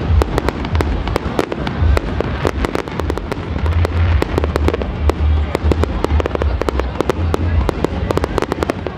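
Fireworks display: a rapid, dense series of bangs and crackles from bursting aerial shells, over a low rumble.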